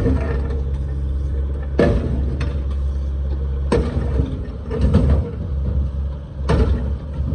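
Engine of a digging machine running steadily while it breaks out and scrapes up old concrete, with sharp clanks and scrapes of concrete slabs and debris every second or two.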